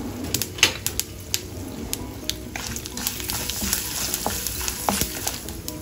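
Peanuts, sesame seeds and dals frying in hot oil in a kadai for a tempering, with a sizzle that grows louder about halfway through. A wooden spatula stirs them, scraping and tapping against the pan in sharp clicks.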